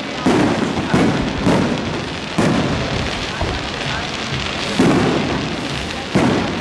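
Aerial fireworks from a castillo display bursting overhead: a string of about six sharp bangs, each fading out in an echo, over a continuous crackle.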